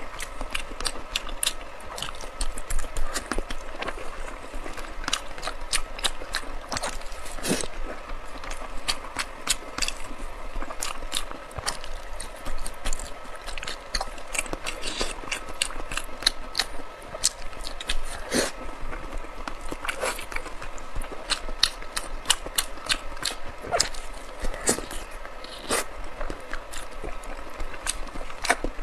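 Close-miked chewing of soft, fatty braised pork belly: a steady stream of wet, sticky mouth clicks and smacks, with a few louder ones, over a faint steady hum.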